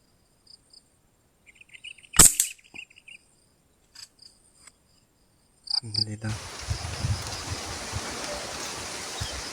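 A single sharp shot from a Canon Super 737 air rifle about two seconds in, over faint insect chirping. From about six seconds a steady hiss with low thumps takes over.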